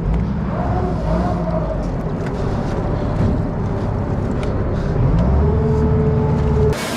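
A boom boat's engine running under load, its pitch shifting and rising about five seconds in, with scattered light knocks. The engine sound cuts off abruptly near the end.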